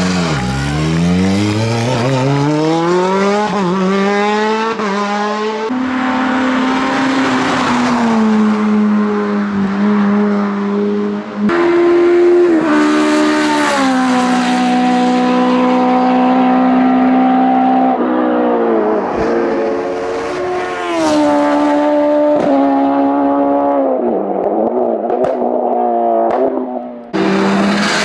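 Hillclimb race car engines at full throttle. The pitch climbs through each gear and drops back at every shift, and is held high for several seconds at a time.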